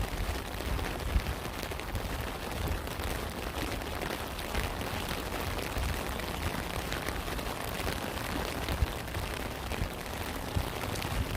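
Steady rain at a campsite, with scattered drops ticking and a low rumble underneath. Two sharper drop hits stand out, about a second in and near nine seconds.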